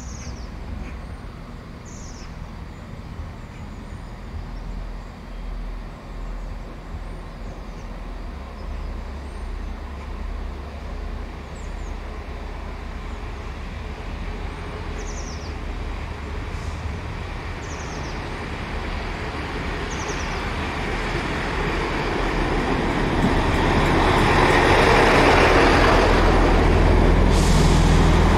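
A train approaching: a steady low engine rumble, with running noise that grows much louder over the last several seconds as it draws near.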